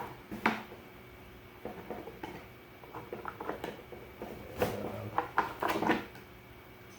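Hard molded plastic parts of a Hart 20-volt shop vac being handled: a series of irregular clicks and knocks, with a sharp knock about half a second in and a busy cluster of clatter near the end.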